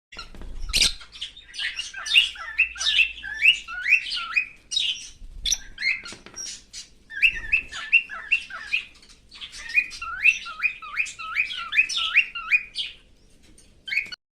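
Cockatiel chirping in quick runs of short, hooked notes that glide up and down in pitch, with brief pauses between runs.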